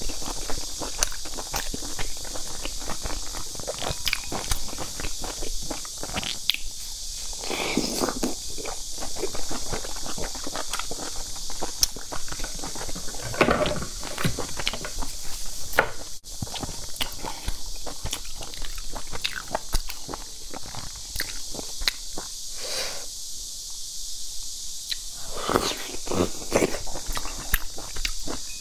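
Close-miked chewing and wet mouth clicks of someone eating large steamed dumplings, with a few longer, louder mouth sounds, over a steady hiss.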